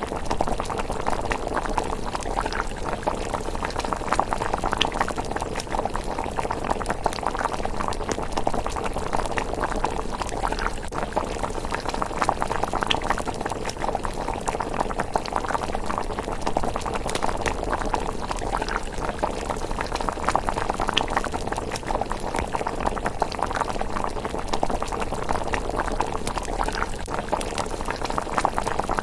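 Thick miso rice porridge simmering in a pot: steady, dense bubbling with many small pops and no lulls.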